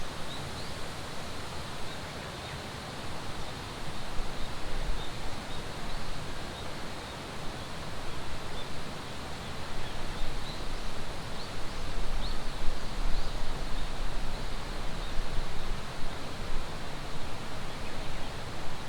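Steady rush of flowing water, with wind gusting on the microphone in surges that rumble and grow louder in the middle and later part. Faint short high chirps come through now and then.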